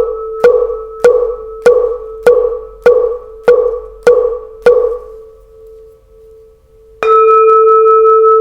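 Jackfruit-wood fish (mõ) knocked in a steady beat, about nine knocks a little under two a second, over the ringing of a 20 cm red copper and tin Huế temple bell, which fades away. About seven seconds in, the bell is struck once and rings on with a steady, full tone.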